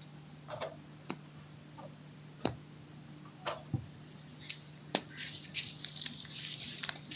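Crunchy chalk crunching close to the microphone: scattered sharp clicks, then a dense run of crisp crackles from about four seconds in, over a steady low hum.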